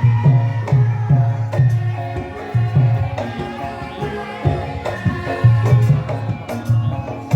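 Javanese gamelan music for a lengger mask dance: a steady beat of low kendang drum strokes under ringing pitched metallophone tones.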